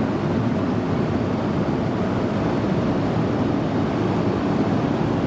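Steady roar of a Boeing 737-400's cabin in cruise, from airflow and engine noise, even and unbroken.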